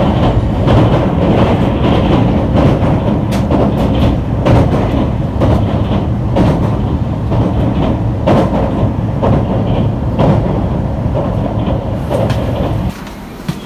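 Limited express Inaho train running on rails: a steady rumble with scattered clicks of the wheels over rail joints. The sound drops away suddenly near the end.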